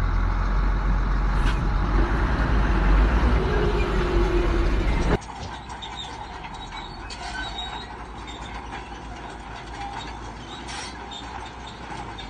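Heavy diesel earthmoving machinery running loudly with a deep, steady low rumble. About five seconds in the sound cuts off abruptly to a much quieter engine with scattered clicks and knocks.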